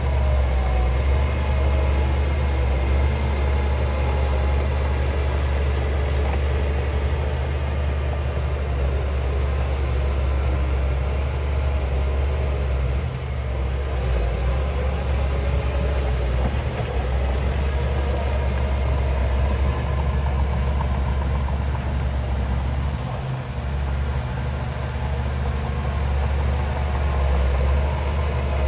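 Heavy diesel engine of earthmoving machinery running steadily, a deep, even hum.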